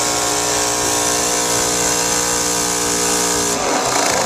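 Small student-built model engine running at a steady speed, a whine with a strong high hiss. The whine cuts off about three and a half seconds in, and the hiss carries on a moment longer.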